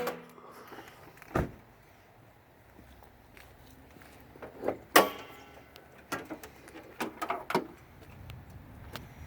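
A few sharp knocks and clunks, the loudest right at the start and about five seconds in, with lighter clicks scattered between, like handling of a car's doors or panels.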